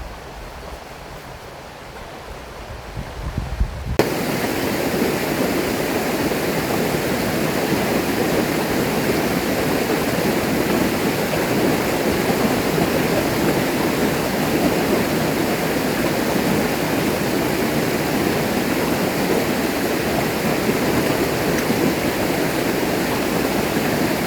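A low rumble, then about four seconds in a sudden switch to the steady rush of flowing river water.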